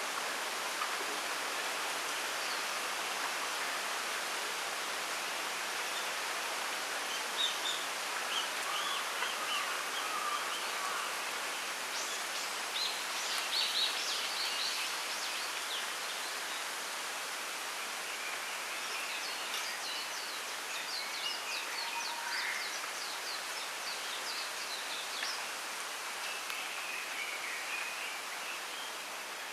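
Wind rustling the leaves of a bamboo grove as a steady hiss, with small birds chirping over it in short calls and quick trills, busiest about a third of the way in and again through the second half.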